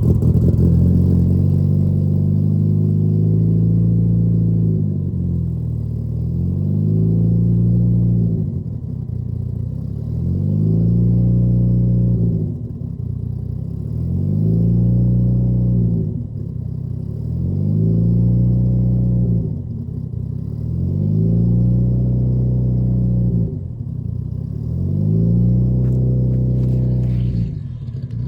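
Turbocharged Nissan 240SX engine on a cold start, catching right at the beginning and then idling with a slow, regular surge, its revs rising and falling about every three to four seconds.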